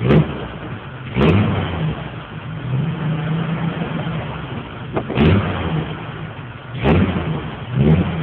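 1987 Jeep CJ-7's AMC 258 inline-six engine, breathing through a 2½-inch exhaust with a bottle-type muffler, idling and blipped on the throttle five times. Each blip is a sudden loud rise that falls back to idle.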